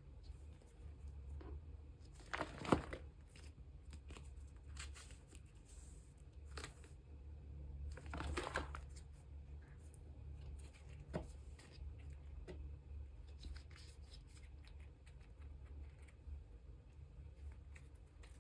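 Photocards and plastic card and binder sleeves handled by hand: soft plastic rustling and sliding, with two louder crinkly swishes, one about two and a half seconds in and one about eight seconds in, and a few light taps.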